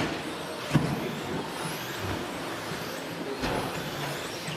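Electric 1/10-scale 2WD stadium trucks with 13.5-turn brushless motors racing round the track: a steady wash of motor whine and tyre noise, with a sharp knock about three-quarters of a second in and a weaker one later, as trucks land or hit something.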